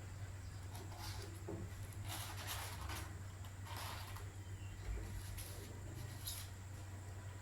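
Soft, intermittent rubbing and scraping of things being handled over a steady low hum.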